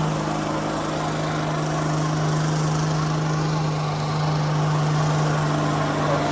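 An engine running at steady revs, a constant unbroken drone with no rise or fall in pitch.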